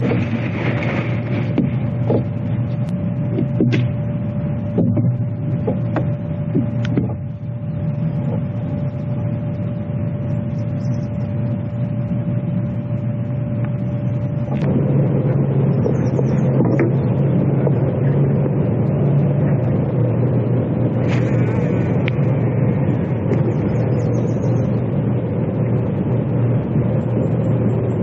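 A motor running steadily with a low hum. A thin higher tone drops out about halfway through, and the sound grows a little louder.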